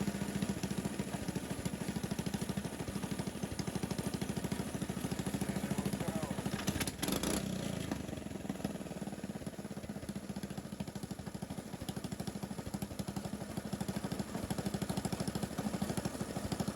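Coleman BT200X mini bike's 196cc single-cylinder four-stroke engine idling low and even, running a 130 main jet on a VM22-style carburettor with a header pipe. The idle has been turned down as low as it will go and it holds steady there.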